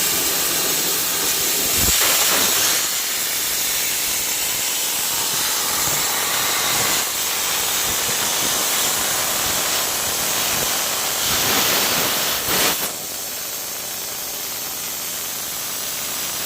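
Plasma cutting torch on a CNC gantry machine, a loud steady hiss of the arc and cutting air, with a few brief swells in level.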